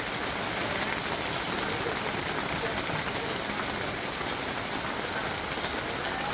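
Steady, even hiss of background noise that sounds like falling rain, with no distinct events.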